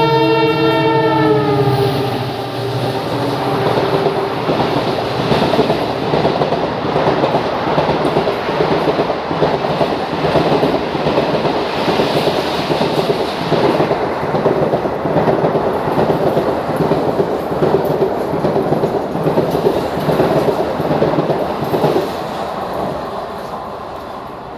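A train passes close by. Its locomotive horn sounds for the first second or two and drops in pitch as it goes by, then the coaches keep up a rhythmic clickety-clack of wheels over rail joints for about twenty seconds before fading away near the end.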